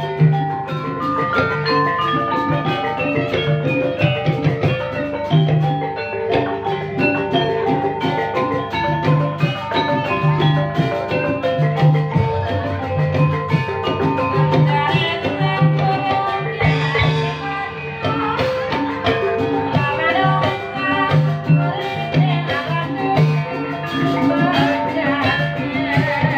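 Live ebeg dance accompaniment music: many quick struck tuned-percussion notes over a repeating low drum rhythm, played steadily.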